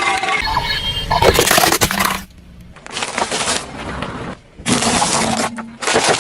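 Objects crunching, cracking and breaking under a car's tyres in several separate bursts, the longest in the first two seconds.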